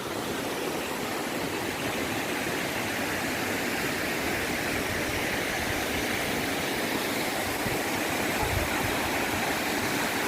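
Steady rush of a forest waterfall, water pouring down a high rocky slope.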